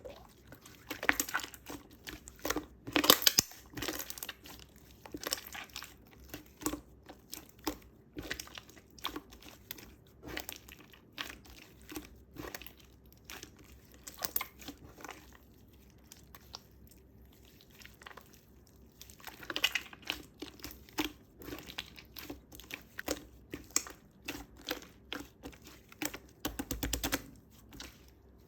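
Slime being squeezed and pressed by hand, making irregular bursts of sharp crackling and clicking pops, with a quieter spell partway through.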